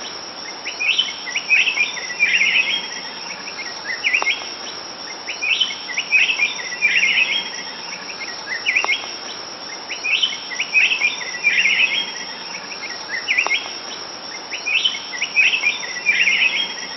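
Rainforest ambience: birds call in clusters of short high chirps that repeat about every four to five seconds, over a steady hiss of insects.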